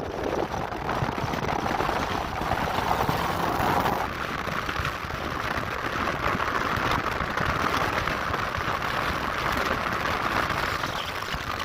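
Car driving with heavy wind and road noise; the engine note climbs, drops suddenly at a gear change about four seconds in, then climbs again.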